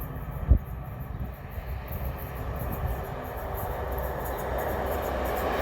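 A train approaching, its rumble and rail noise growing steadily louder, with one sharp knock about half a second in.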